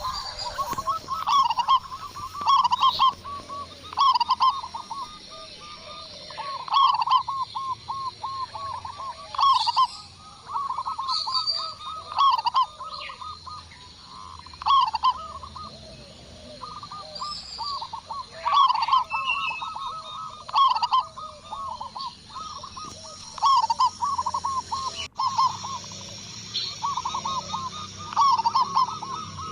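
Zebra doves (perkutut) cooing: repeated phrases of rapid staccato coo notes, one every second or two, the dove's typical rattling song. Fainter high chirps sit behind them.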